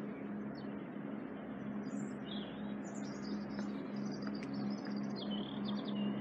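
Songbirds chirping and trilling in a series of short high calls, over a steady low hum and a constant background hiss.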